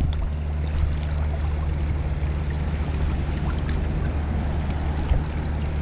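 A trout stream's water running steadily, with a low rumble under it.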